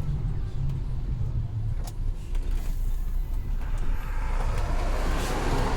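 Heavy truck's diesel engine running at low revs, heard from the cab. A hiss swells over the last couple of seconds.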